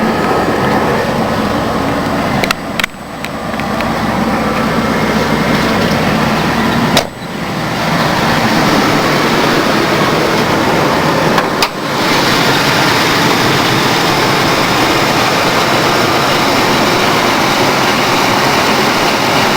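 Ford Crown Victoria 4.6-litre V8 idling shortly after a cold start, after sitting for a week. Sharp knocks come about 3, 7 and 12 seconds in as the hood is unlatched and raised; after the last, the engine is louder and clearer with the hood open.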